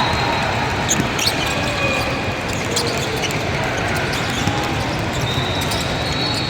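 Basketball game in play: the ball bouncing on the court over the steady noise of the gym, with a couple of short high squeaks about a second in.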